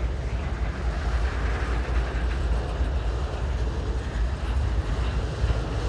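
Freight train cars rolling slowly past, a steady low rumble.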